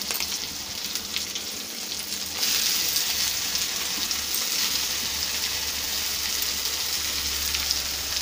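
Onions, green chillies and garlic sizzling in hot mustard oil in a kadai. About two seconds in, steamed taro stolons are tipped into the oil and the sizzling gets louder and holds steady.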